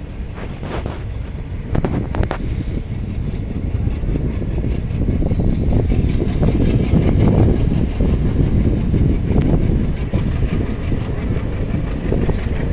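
A moving heavy vehicle: a low rumble with irregular rattling and clatter. It grows louder over the first few seconds and then runs on steadily, with a few sharp clicks near the start.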